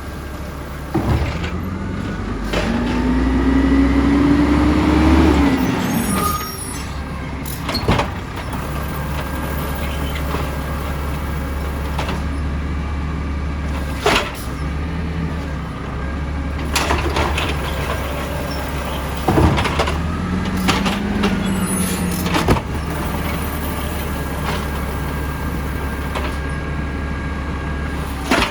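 Side-loader garbage truck's diesel engine running steadily while its hydraulics work. The engine speeds up with a rising whine twice, once for a few seconds early on and again briefly later, and several sharp clanks and short bursts of noise are scattered through it.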